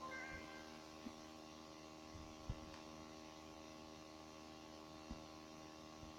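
Faint steady electrical mains hum, with a few soft clicks.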